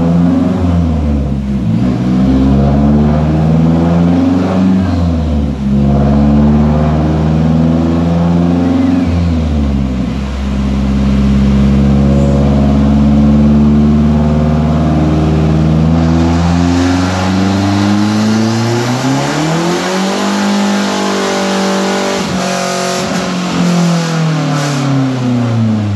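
Straight-piped Mazdaspeed 3's turbocharged four-cylinder engine accelerating hard. The revs climb and drop back at gear changes about 1.5, 5.5 and 10 seconds in, then climb slowly for a while, fall as it eases off, and climb again near the end.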